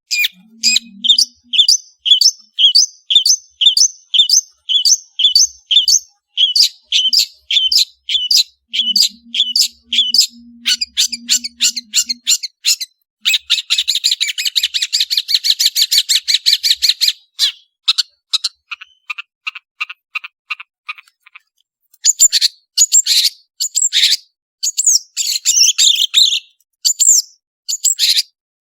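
Long-tailed shrike (cendet) singing a fast, varied song. It starts with a quick run of repeated high notes, moves into a dense, rapid trill about halfway through, and after a brief pause near the end gives louder, harsher calls.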